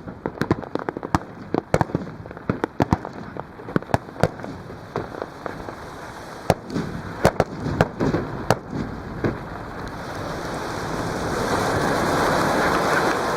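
Fireworks bursting, a rapid irregular string of sharp bangs and crackles that thins out after about nine seconds. Near the end a steady rushing noise swells up.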